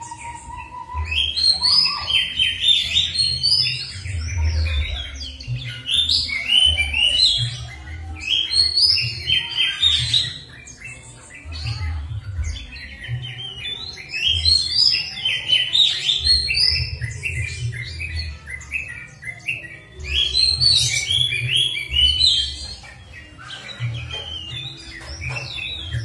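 Songbird singing a fast, varied song of chirps and trills in bursts of a second or two with short pauses, as played in a pancingan lure recording meant to set caged songbirds singing. A low rumble comes and goes beneath the song.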